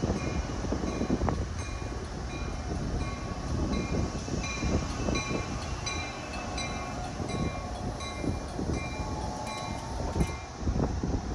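Metra commuter train arriving at a station: its warning bell rings in steady repeated strikes over the low rumble of the wheels on the rails as it rolls slowly in.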